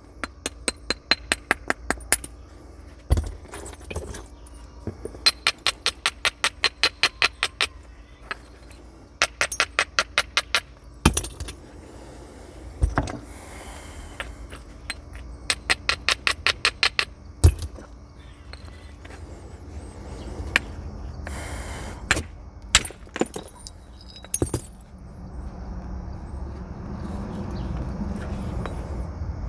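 Flint being knapped with natural tools: quick runs of light stone-on-flint strokes, about seven a second, broken by single sharp knapping blows. Near the end there is a low scraping rustle of stone being handled.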